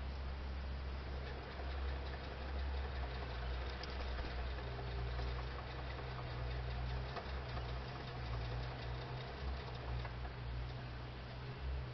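Wind rumbling on the microphone of an outdoor night camera, swelling and dipping, over a steady hiss.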